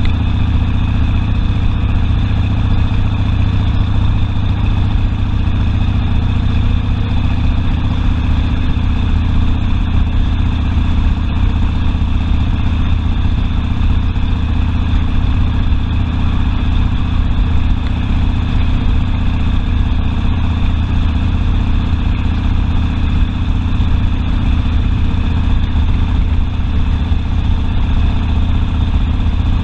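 Harley-Davidson Sportster's V-twin engine running steadily.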